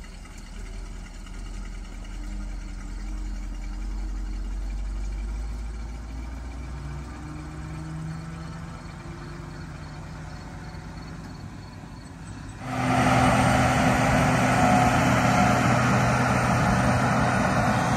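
Diesel engine of farm harvest machinery running, with its pitch rising a little around the middle. About 13 seconds in it suddenly becomes much louder and then runs steadily.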